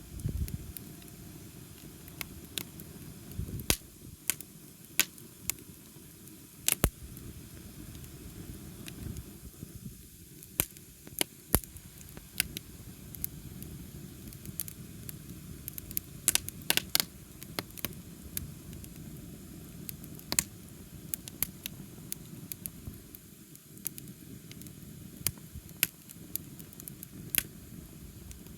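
Wood bonfire burning: a steady low rush of flame with irregular sharp pops and crackles from the burning wood.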